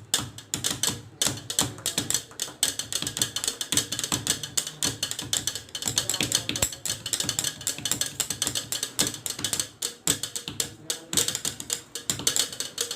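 Rapid, irregular tapping and clicking, several sharp strikes a second, like hand percussion.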